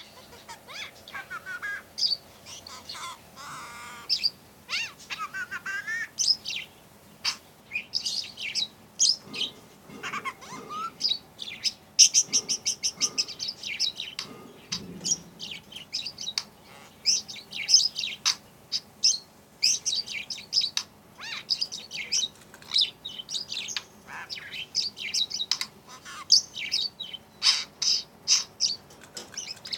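Budgerigar chattering and warbling: an unbroken run of short high chirps, squeaks and quick buzzy trills, the chatter of a contented budgie.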